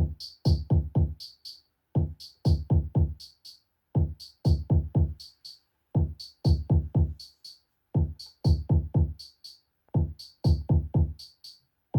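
Eurorack modular drum loop: a pattern that repeats about every two seconds, a quick run of four low kick-like hits that drop in pitch, then a gap, with pairs of short, bright hi-hat-like ticks between.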